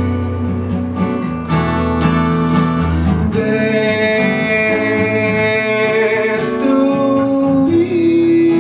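Acoustic guitar strummed in a live song. The strumming stops about three seconds in, and held notes ring on, stepping to a new pitch twice.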